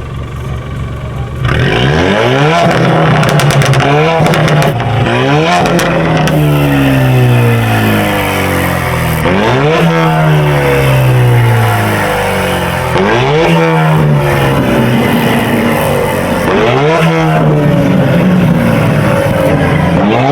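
Car engine revved hard again and again through a very loud exhaust. It starts about a second and a half in, and each rev climbs sharply and falls back.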